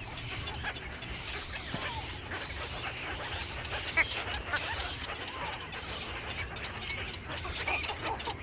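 Many birds chirping and calling over one another in short overlapping calls, with a steady low rumble underneath.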